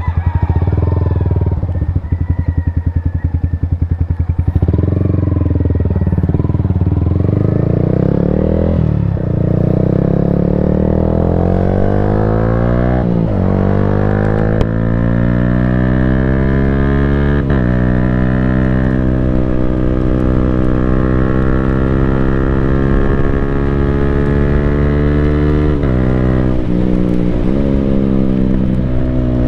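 Yamaha Sniper 155R's single-cylinder engine through an Akrapovic full-system exhaust. It runs at low revs, then accelerates hard through three quick upshifts, the pitch climbing and dropping sharply at each shift. It then holds a steady cruise, and near the end falls away on a closed throttle with a couple of short revs.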